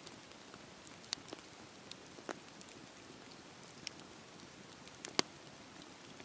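Campfire crackling: a soft steady hiss with scattered sharp pops. The loudest pop comes about five seconds in.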